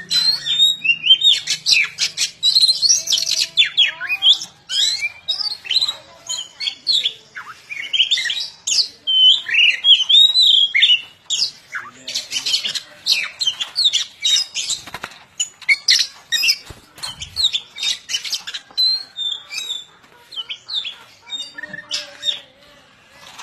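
Small birds chirping and squawking rapidly in a dense, overlapping chatter of short high calls and quick pitch sweeps, thinning out in the last few seconds.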